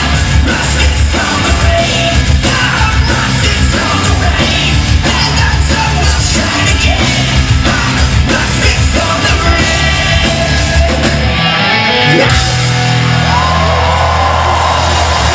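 Punk rock band playing live in a large hall: distorted electric guitars, bass, drums and a yelled, sung lead vocal. About eleven seconds in the drums and bass break off for a moment, then the band comes back in on a long held chord.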